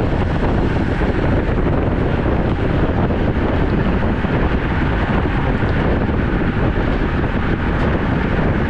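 Steady wind rushing over the microphone while riding a road bike, a loud, even noise strongest in the low end.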